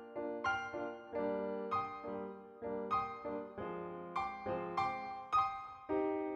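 Piano music: notes and chords struck in a steady, flowing pattern, about two a second, each ringing on into the next.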